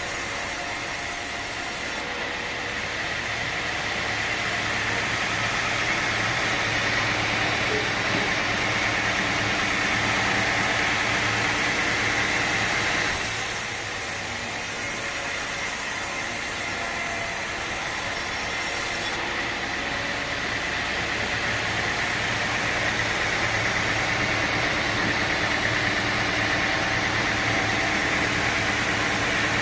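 Sawmill saw running through a teak log: a steady machine whine over a noisy wash. It swells for several seconds, drops back about thirteen seconds in, then builds again.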